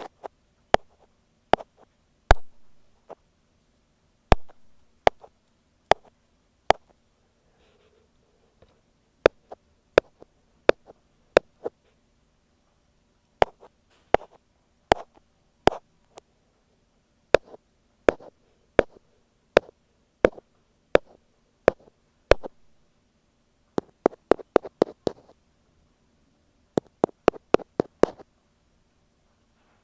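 Ear pick tapping on an earphone microphone: single sharp taps, mostly about one a second at uneven spacing, then two quick runs of rapid taps near the end.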